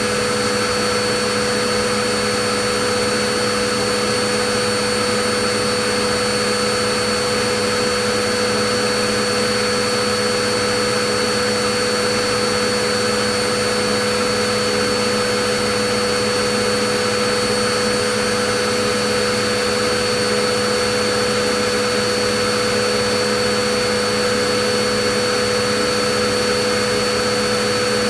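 Vacuum cleaner running steadily: a constant rushing hiss of air with a steady motor hum and whine, unchanging in pitch and level.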